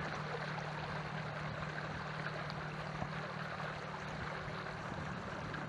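Canoe underway on choppy lake water: a steady wash of water and wind noise with a low, even hum underneath.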